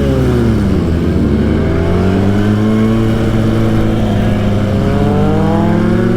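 Motorcycle engine running under way. Its pitch falls in the first second, holds steady, then climbs through the second half as the bike accelerates.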